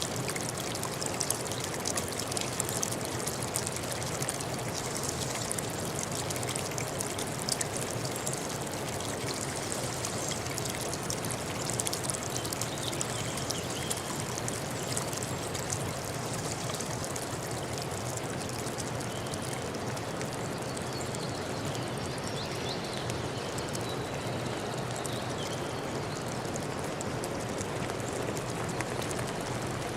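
Water flowing steadily, a continuous even rush like a forest stream.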